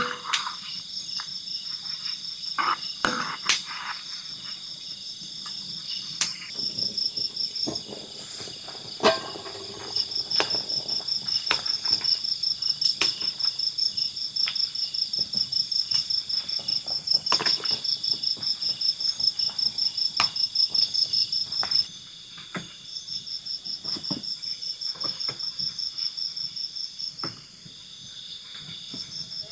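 Insects chirping in a fast, steady pulse with a continuous high whine beneath; the chirping breaks off twice in the second half. Scattered sharp clicks and knocks sound through it.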